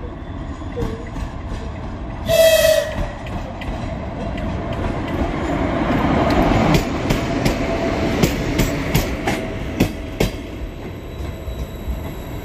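A train moving through the station gives one short horn blast about two seconds in. Its running rumble then swells, and from about seven seconds the wheels clack over the rail joints in a run of sharp knocks.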